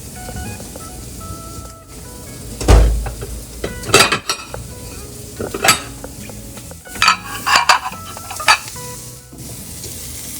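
Food sizzling as it fries in a pan, with utensils and plates clattering and clinking against each other several times; the loudest knock, with a low thud, comes about three seconds in.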